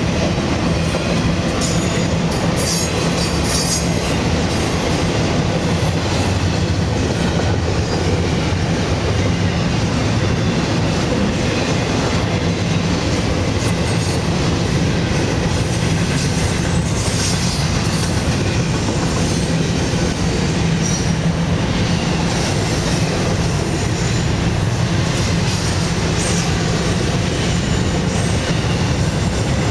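Freight cars of a Florida East Coast Railway intermodal train, loaded with stacked containers and trailers, rolling past close by: a steady rumble with the clatter of wheels over the rail joints.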